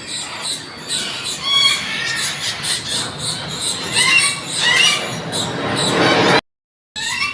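Birds squawking and squealing in short pitched calls over a fast, high, pulsing chatter. The sound breaks off abruptly near the end.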